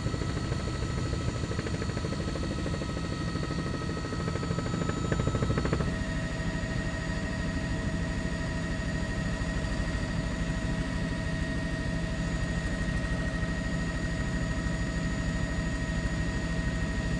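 Helicopter rotor and engine noise, steady, with a fast even chop and a whine of several tones that shifts pitch about six seconds in.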